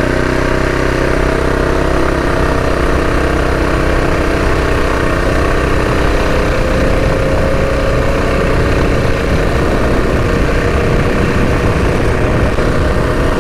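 Modified Predator 212 single-cylinder four-stroke engine on a mini bike, running steadily at part throttle under way. Its pitch stays nearly even, rising slightly in the middle.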